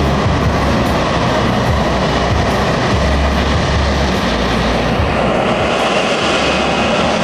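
Loud, steady jet noise from the F-35B's engine during its flying display, with a low rumble that pulses and a harsher upper hiss that grows stronger from about five seconds in.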